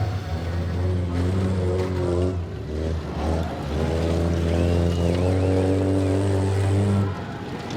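Demolition derby car engines running and revving, several at once, loud and steady with pitch shifts. A brief warbling high tone sounds in the middle.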